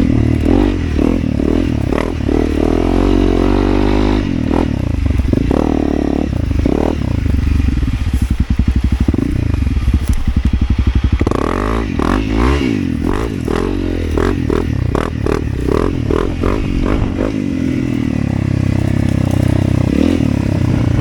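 Motorcycle engine running, its revs rising and falling several times as the throttle is opened and closed, most of it in the second half.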